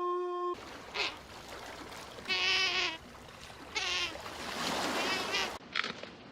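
Animal calls from spliced clips: a held, steady call cuts off half a second in. Then come a short call and two longer calls, each sliding down a little in pitch, over a hissing background. Near the end a cut leads into a run of short calls.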